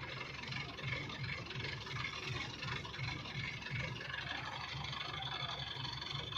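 Farm vehicle engine running steadily at idle, with a low, uneven throb.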